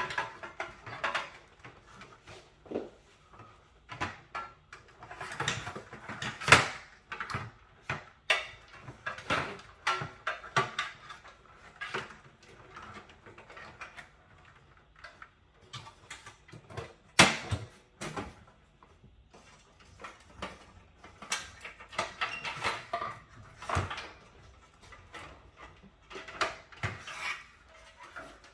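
Irregular clicks, knocks and scrapes of an Alienware Aurora R10 desktop case being taken apart by hand, its front panel being worked off, with two sharper knocks about six seconds in and again around seventeen seconds.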